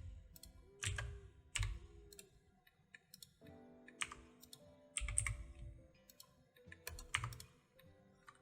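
Computer keyboard keystrokes in short scattered groups, each a sharp tap with a soft thud, as shortcut keys are pressed.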